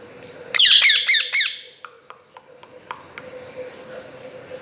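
Pet talking parrot giving a quick burst of about four harsh squawks, followed by faint clicks. The owner takes the squawking for anger.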